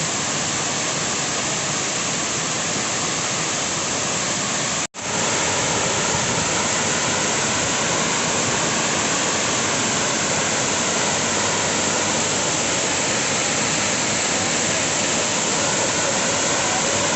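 A large, tall waterfall pouring down in a steady, dense rush of water noise. The sound cuts out for an instant about five seconds in and comes back slightly louder.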